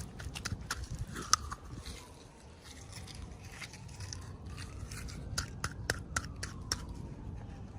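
Plastic toy packaging being handled and opened: irregular sharp clicks, scraping and crinkling, busiest about a second in and again between five and seven seconds in.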